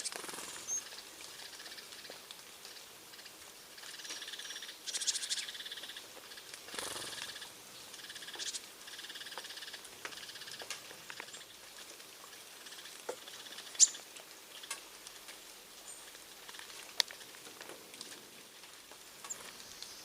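Small birds chirping in short bouts, with scattered light ticks and pattering and a couple of sharp clicks in the second half.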